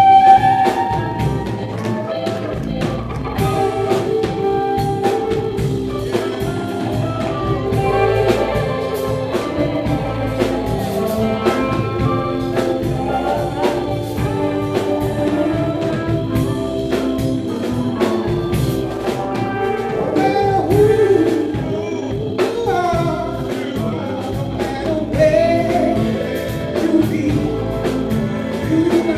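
Singing with instrumental accompaniment and drums.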